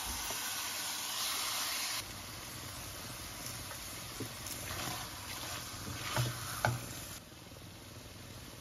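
Chicken pieces sizzling in hot oil and masala in a stainless steel pot while being stirred with a wooden spoon, a steady hiss with two light knocks about six seconds in.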